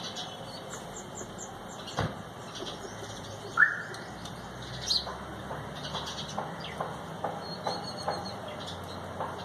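Several birds chirping and calling with short, high notes, one louder, lower call standing out a little over a third of the way in and brief calls repeating about twice a second in the second half. A single sharp tap sounds about two seconds in.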